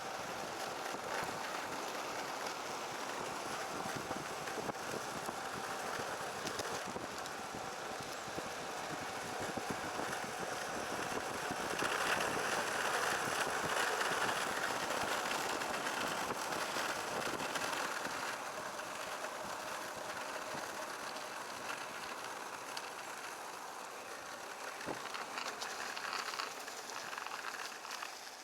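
Longboard wheels rolling fast on asphalt during a downhill run, a steady rushing noise that swells louder about halfway through and then eases off.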